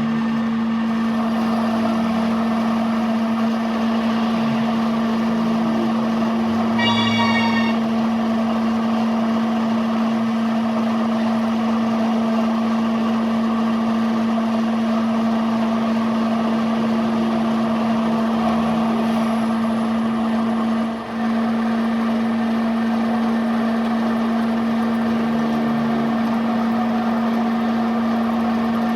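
A machine running with a loud, steady hum on one tone. About seven seconds in there is a brief high-pitched ringing, and it dips for a moment about two-thirds of the way through.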